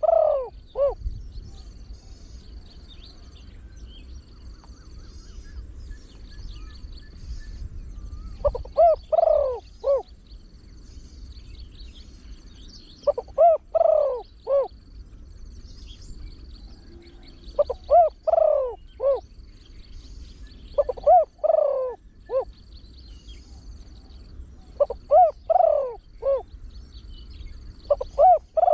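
A trained spotted dove with a deep voice, cooing in short phrases of three or four notes, repeated every few seconds. Faint chirps of other birds sound high in the background.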